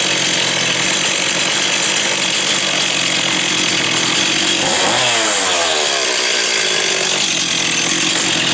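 Stihl 026 two-stroke chainsaw running hard at high revs, its pitch climbing and then sweeping down about five seconds in. The saw is fitted with a new carburetor, its air leak at the intake elbow has been cured, and it is described as a great running saw.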